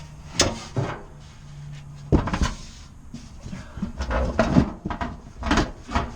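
Metal clunks, knocks and rattles as an ECM blower motor is worked loose and pulled out of its blower wheel and housing, its set screw already removed. The loudest knock comes about two seconds in, and a quick run of knocks and rattles follows in the second half.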